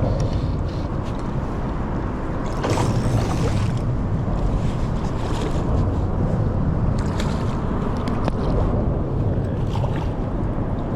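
Wind rumbling on the microphone by the riverbank, with a few brief rustling or splashing noises about three seconds in and again around seven to eight seconds.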